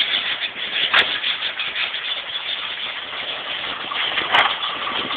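Ford F-100 pickup's 351 Windsor V8 engine running, with two sharp clicks, one about a second in and one near the end.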